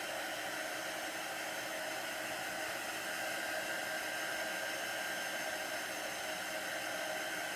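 Hand-held electric dryer blowing a steady rush of air with a faint whine, drying freshly applied chalk paste.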